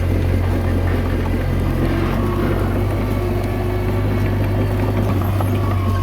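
Komatsu D21A bulldozer's diesel engine running steadily under work, a constant low drone.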